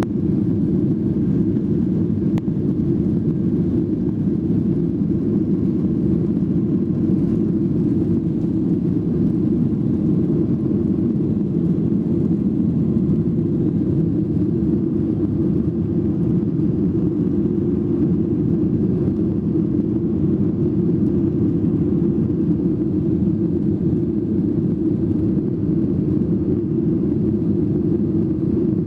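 Steady rumble of a Boeing 737's engines and airflow heard inside the cabin, low and even without changes in pitch.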